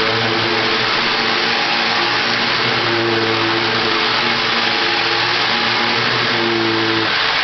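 Hoover WindTunnel Self-Propelled Ultra upright vacuum cleaner running: a loud, steady rushing of air, with a motor hum that comes and goes and drops away about seven seconds in.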